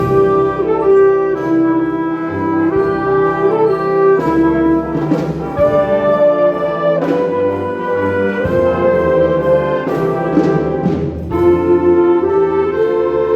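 Concert wind band playing a loud passage, the brass to the fore in sustained chords that change every second or so, with several sharp accented strikes along the way.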